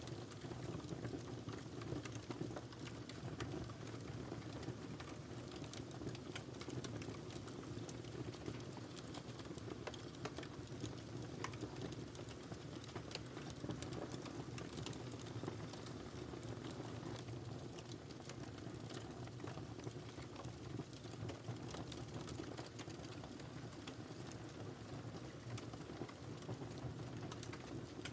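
Wood fire in a fireplace crackling: many small, irregular pops and snaps over a steady low rumble of the burning.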